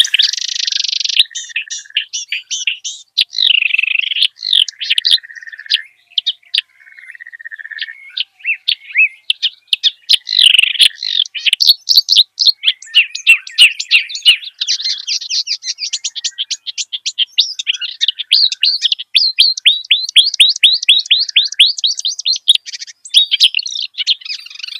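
A kerak basi (reed warbler) singing a long, varied song of chattering and whistled phrases, which later turn into fast runs of repeated notes.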